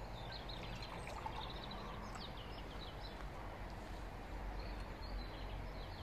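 Small songbirds chirping in quick series of short, falling notes over a steady low background rumble. Sap is poured from a glass bottle into a mug early on.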